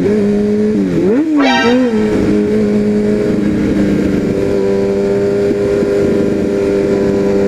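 Honda CBR sport bike engine running, with one quick throttle blip about a second in that rises and falls sharply, then settling back to a steady note.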